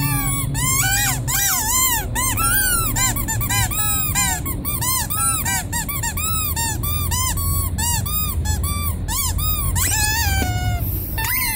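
Rubber squeaky toy squeezed over and over: a fast run of short, high squeaks that rise and fall in pitch, several a second, ending in a longer falling squeak.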